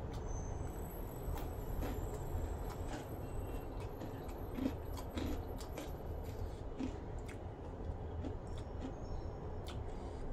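Someone eating by hand, chewing crispy fried chicken skin with rice: a scatter of short crunches and clicks over a steady low hum.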